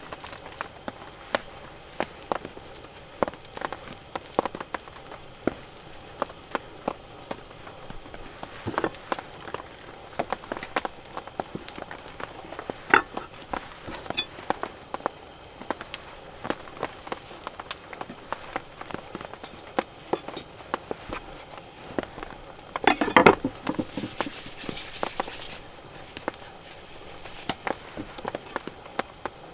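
Rain and sleet drops pattering irregularly on a surface, heard as scattered sharp ticks over a soft hiss. A louder rustle comes about 23 seconds in.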